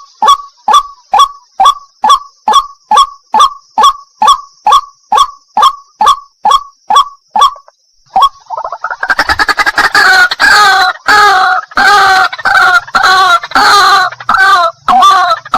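White-breasted waterhen (wak-wak) calling. A steady series of short, clipped notes comes about three a second and stops about 7.5 seconds in. After a brief pause, a loud run of rapid, repeated croaking calls follows.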